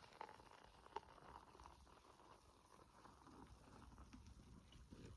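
Near silence: faint outdoor background with a single soft click about a second in.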